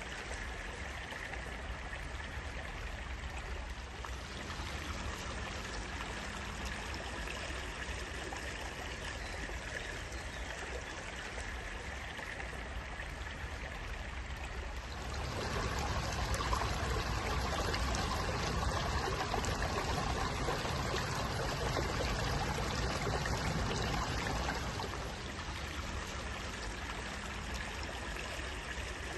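Water running in a small stream, a steady trickling and pouring. It swells louder about halfway through for around ten seconds, then settles back.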